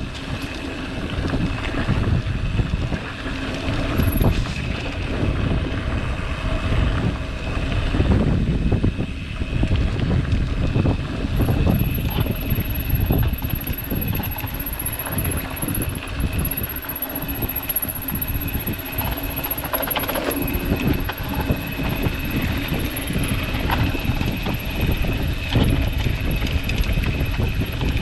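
Wind buffeting the microphone over the rumble and rattle of a mountain bike riding a rough dirt trail, with many small knocks from the bike jolting over the ground.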